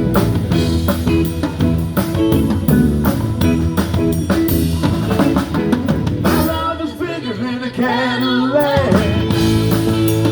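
Blues-rock band playing live: drum kit, bass and electric guitar with singing. The bass and drums drop out for a short break about seven seconds in, then the full band comes back in just before nine seconds.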